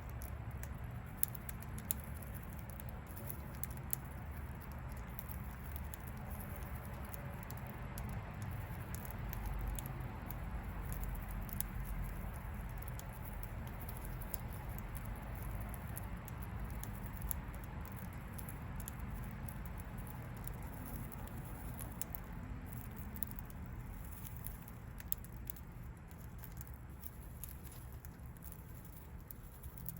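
Budgie pecking at seed held in a hand: many small, irregular clicks and taps of beak on seed and husk, a few sharper ones in the first seconds, over a steady low rumble.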